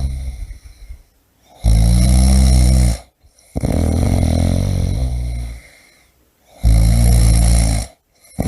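A person snoring in a steady rhythm. There are two loud, low snores about five seconds apart, each lasting a little over a second, and between them a longer breath sound that fades away.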